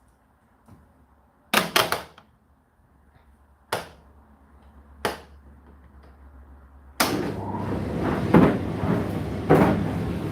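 A few sharp knocks, then about seven seconds in an Indesit IDC8T3 condenser tumble dryer starts running: a steady motor hum with the drum turning and repeated thuds from the tumbling load.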